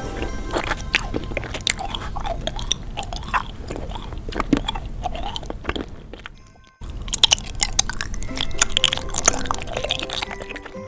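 Close-miked eating sounds: crunchy bites and chewing, with music underneath. A short break a little past halfway, after which the crunching resumes.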